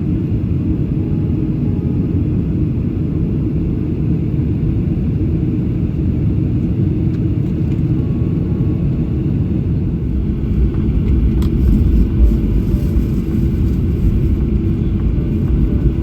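Steady low rumble of a JAL Boeing 737-800 heard from inside the cabin, growing a little louder about ten seconds in.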